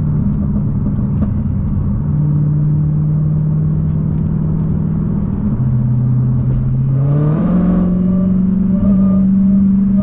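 Dodge Hellcat's supercharged 6.2-litre HEMI V8 running while the car is driven. The engine note drops a little about halfway, then the revs climb quickly about seven seconds in with a brief louder burst, and it carries on at a higher pitch.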